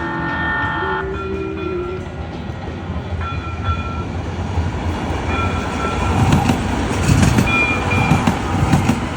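Train running close by: a horn chord cuts off about a second in, short high squeals follow, and from about six seconds the wheels thump over rail joints in a steady clickety-clack that grows louder.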